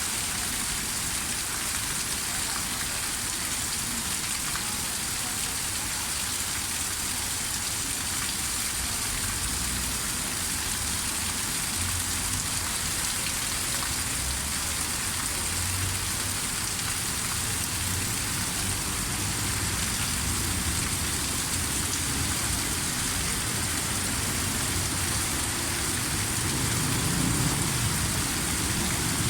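Heavy rain falling steadily, an even hiss of drops on a surface. A low rumble grows near the end.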